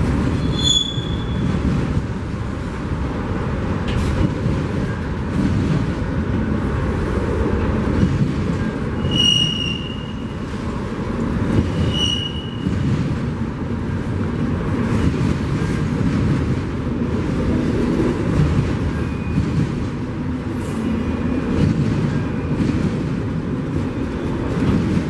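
A train rolling past with a steady low rumble of its cars on the rails. Three brief high-pitched wheel squeals come about a second in, at about nine seconds and at about twelve seconds.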